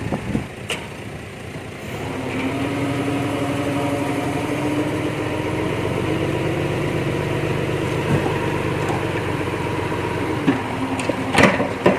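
Diesel engine of heavy earthmoving machinery running steadily. It comes up in level about two seconds in and holds an even hum, followed near the end by a few sharp knocks.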